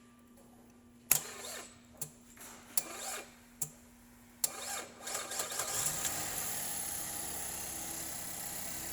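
2012 GMC Acadia's 3.6-litre V6 being started: several short sharp bursts under a second apart, then it catches about four and a half seconds in and settles to a steady idle.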